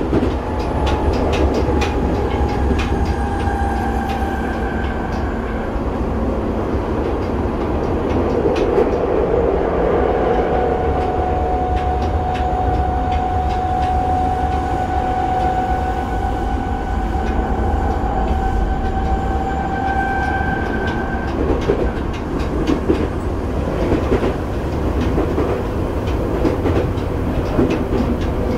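Tokyo Metro 7000 series train running at speed, heard from inside the passenger car: a steady low rumble of wheels on rail with scattered clicks of rail joints. A faint steady whine comes in briefly near the start and again through the middle, then fades.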